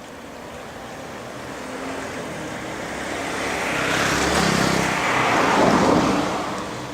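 A road vehicle driving past: tyre and engine noise swells, peaks with a downward sweep in pitch, then fades near the end.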